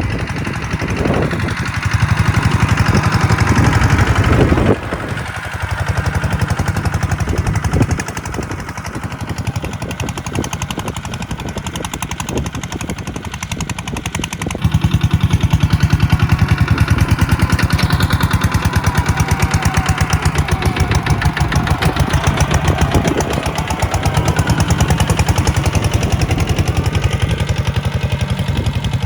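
Tractor diesel engine running with a rapid, knocking exhaust beat. Its loudness steps up and down several times, rising sharply about halfway through, as the load or throttle changes.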